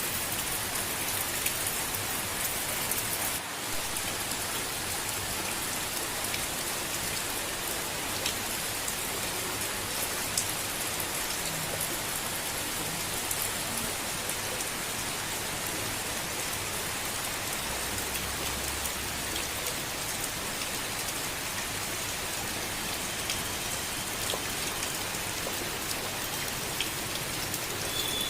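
Steady gentle rain falling, with scattered ticks of single drops.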